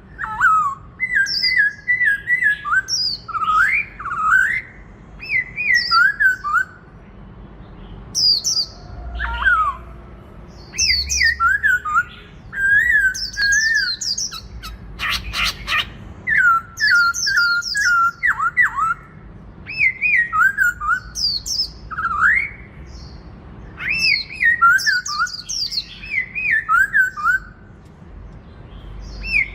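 Black-throated laughingthrush singing loud whistled phrases of sliding, rising and falling notes, in bouts of a second or two with short pauses between them. A brief noisy burst comes about halfway through.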